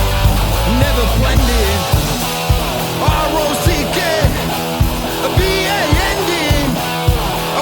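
Rock band song: drums keep a steady beat of about two hits a second under bass and guitars, with bending melodic lines on top.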